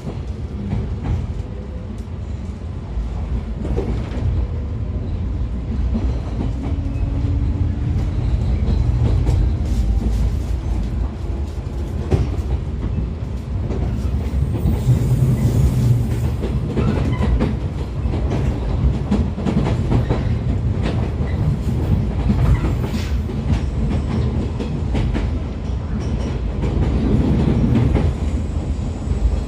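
JR 113 series (5700 subseries) electric train heard from aboard a motor car while running: the MT54 DC traction motors and gears give a steady low rumble, with a faint whine rising in pitch over the first several seconds as the train gathers speed. The wheels click repeatedly over rail joints and points.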